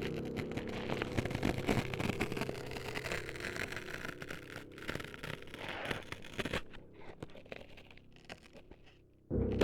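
Close scraping and crackling against the microphone, in dense irregular strokes, over a low steady hum that fades out about two-thirds of the way through and comes back suddenly just before the end.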